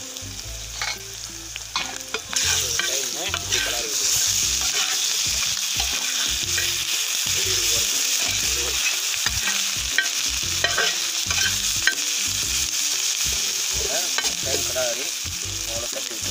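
Chicken liver pieces sizzling in oil in a shallow iron pan while a metal spatula stirs them, scraping and clicking against the pan. The sizzle gets louder about two seconds in and stays strong.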